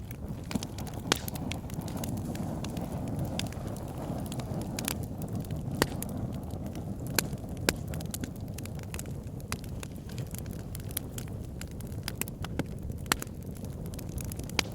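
Wood fire burning in a fireplace: a steady low rumble of flames with frequent sharp pops and crackles from the burning logs, a few of them much louder than the rest.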